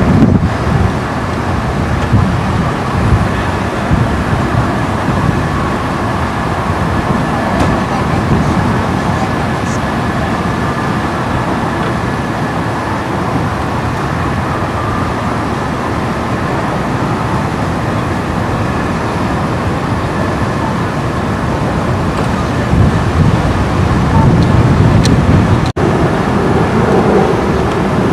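Floodwater rushing down a swollen creek: a loud, steady rush of noise, broken by a momentary dropout near the end.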